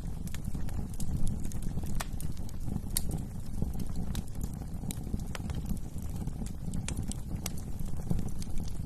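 Wood fire crackling in a fireplace: irregular sharp pops and snaps scattered over a steady low rumble of burning logs.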